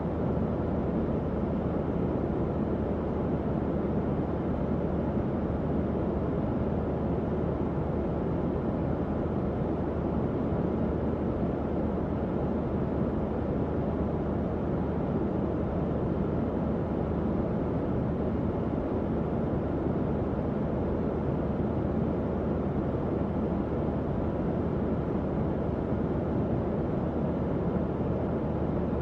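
Tower fan running steadily: an even, low whooshing airflow with a faint low hum underneath.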